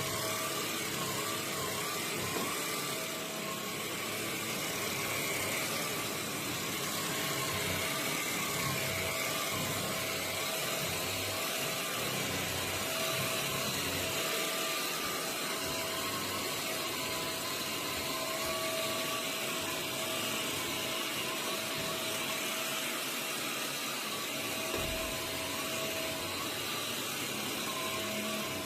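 MBYULO cordless stick vacuum running steadily: an even rushing hiss of air with a steady motor whine and a higher tone that wavers slightly.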